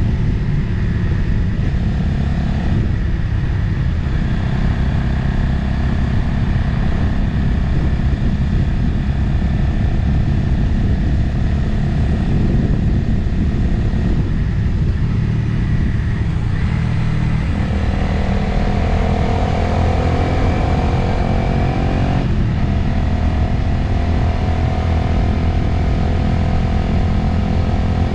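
Motorcycle engine running under way with wind noise. About two thirds of the way in, the engine note rises for a few seconds as it accelerates, then drops sharply.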